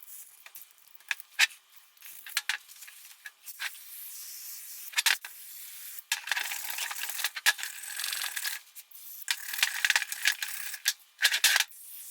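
Loose surface rust being scrubbed by hand off a steel VW Bus front spindle: scratchy rasping strokes in stretches of a few seconds, with sharp clicks and knocks between them.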